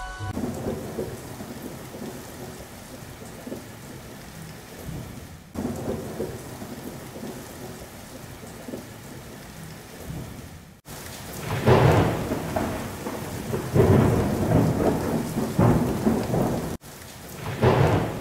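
Rainstorm with thunder: steady rain, then several loud rolling thunder rumbles in the second half. The sound cuts off sharply a few times, as if pieced together from separate clips.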